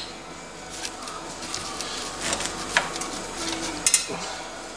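Light, scattered metal clicks and taps of a 10mm socket and wrench being fitted onto the clutch spring bolts.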